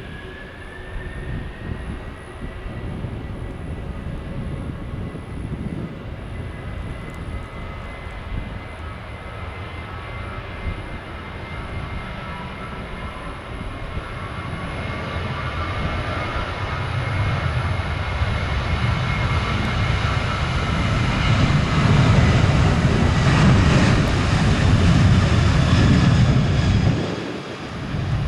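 Jet airliner engines, a steady high whine over a rumble, growing louder over about twenty seconds as the aircraft passes close. It is loudest shortly before the end, then dips briefly.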